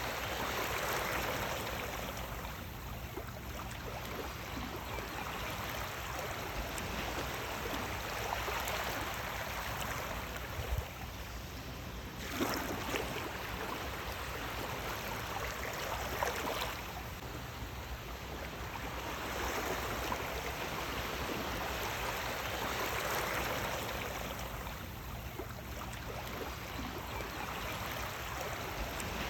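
Sea waves washing in, a continuous rush of water that swells and eases every few seconds.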